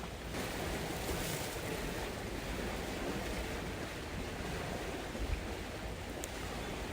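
Steady rushing noise of wind and water, with wind buffeting the microphone, a brief low bump about five seconds in and a faint tick near the end.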